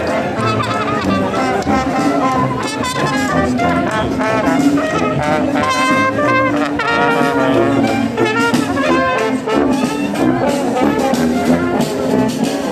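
Brass band playing a tune, trombones and trumpets to the fore.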